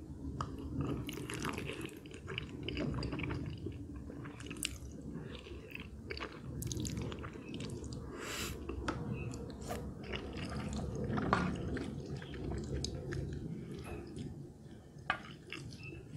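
Close-miked chewing of creamy instant noodles: wet smacks and mouth clicks, with a short slurp from a spoon about eight seconds in and a single sharp click near the end.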